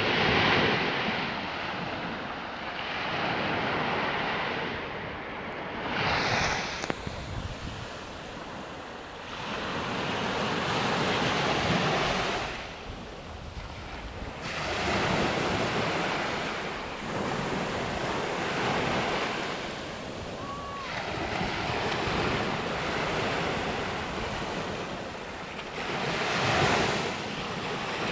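Sea waves breaking and washing in, swelling and fading every few seconds, with wind on the microphone.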